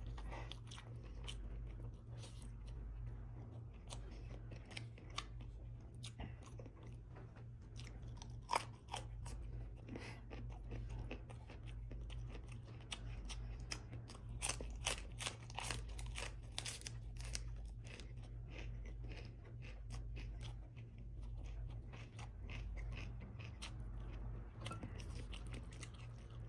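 Close-up chewing and mouth sounds of eating braised beef ribs with rice, with crisp crunching of a romaine lettuce leaf about halfway through.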